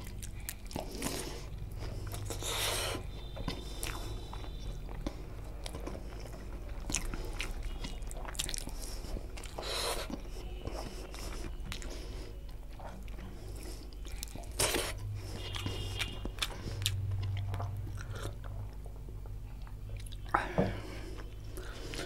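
Close-miked eating sounds: chewing and lip smacks as rice and green chicken curry are eaten by hand, with irregular wet clicks and smacks.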